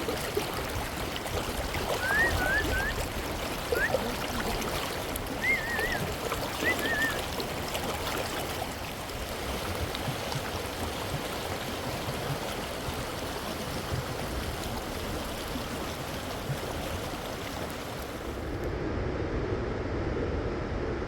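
Rushing river water, a steady rush, with a few short high chirps a couple of seconds in and again around six seconds in. Near the end the sound changes abruptly to a duller, lower rush.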